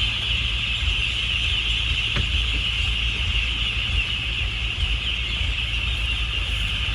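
A boat's engine runs with a steady low rumble under a dense, unbroken high-pitched din, typical of a very large flock of ducks calling together.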